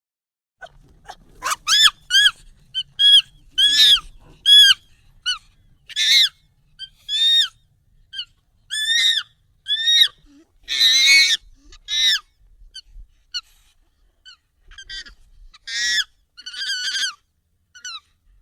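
Monkey calls, sped up and raised in pitch: a string of short, high-pitched arching calls about one every half second to a second, with one longer, harsher call about eleven seconds in.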